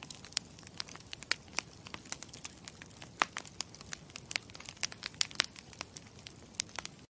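Campfire crackling: irregular sharp pops and snaps of burning wood over a low steady rumble of the flames. It starts suddenly and cuts off suddenly near the end.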